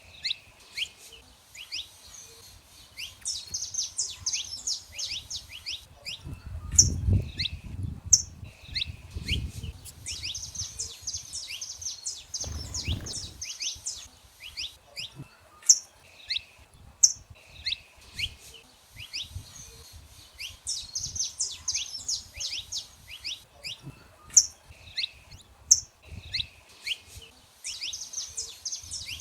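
Saffron finches singing: bouts of rapid down-sweeping notes that come again every several seconds, with single sharp high chips between them. A low rumble comes in twice, about a quarter of the way in and near the middle.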